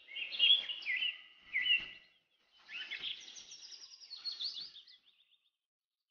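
Birdsong: quick, high chirping notes in two phrases, the first about two seconds long, then a short pause and a second, longer phrase.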